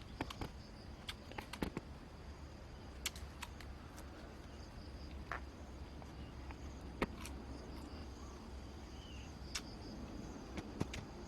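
Steady high insect drone with scattered light clicks and taps from handling.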